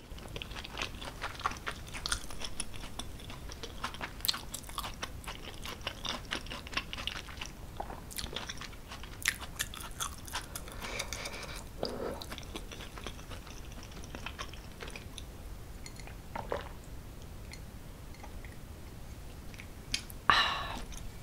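Close-miked chewing of soft, creamy cheese tortellini pasta: wet mouth clicks and smacks that come and go. Around the middle she sips from a glass of water, and near the end there is a short breath out.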